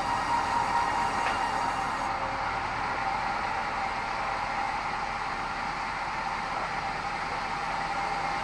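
Sawmill band saw running steadily with a constant whine. A high hiss drops away about two seconds in.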